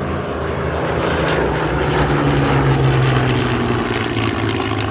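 Spitfire and Hurricane piston fighters flying past, their Rolls-Royce Merlin V12 engines and propellers growing louder to a peak about halfway through, then dropping in pitch as they go by.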